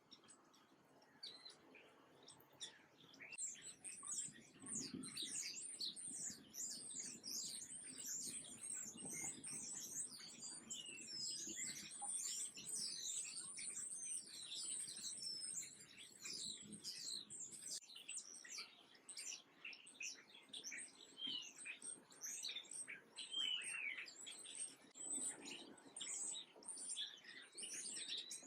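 Many small birds chirping, a dense run of overlapping short, high chirps that builds up about three seconds in.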